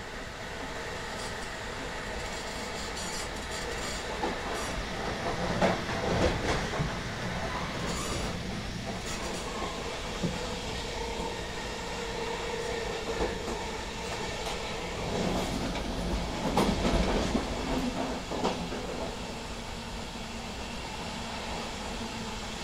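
Ride noise inside an InterCity passenger coach hauled by a DB Class 101 electric locomotive. The wheels rumble steadily on the rail, with steady whining tones from the locomotive's Adtranz GTO traction inverter underneath. Louder stretches of clattering over rail joints or points come about five seconds in and again about sixteen seconds in.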